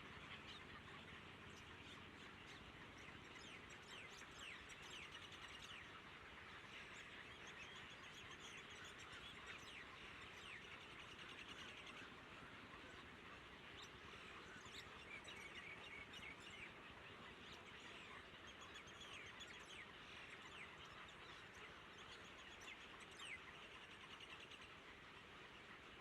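Faint, high-pitched bird chirps coming thick and fast throughout, over a steady low hiss.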